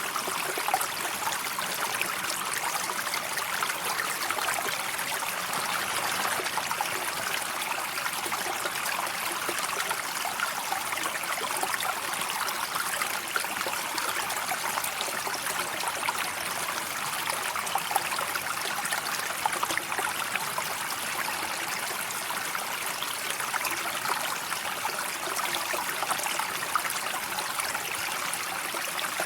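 Steadily flowing river water, an even rush with fine trickling detail and no change throughout.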